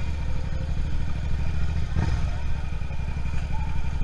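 Suzuki SV650's V-twin engine running steadily at low revs, with a short knock about halfway through.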